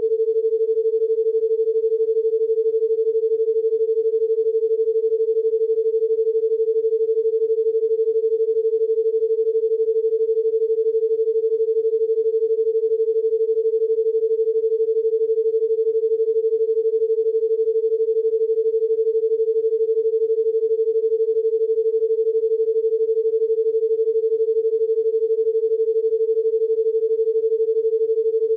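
A single steady electronic pure tone held at one unchanging pitch, a sine-wave 'healing frequency' tone.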